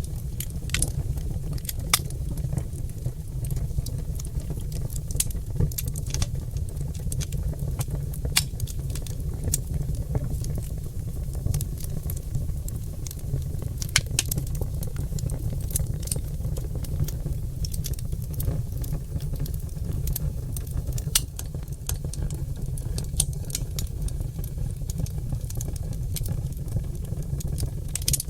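Oak logs burning in a fireplace: irregular sharp crackles and pops, several a second, over a steady low rumble of the fire.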